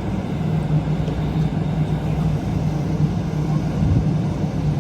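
Airliner cabin noise with the engines running: a steady low rumble with a constant low hum.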